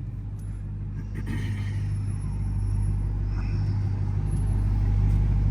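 Jeep Grand Cherokee Trackhawk's supercharged V8 engine, a low steady drone growing steadily louder.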